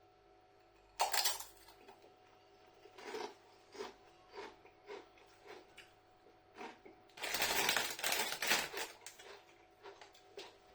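Crunchy tortilla chips being bitten and chewed: a sharp crunch about a second in, then a run of short crunches about twice a second, and a louder, longer crackle from about seven seconds in.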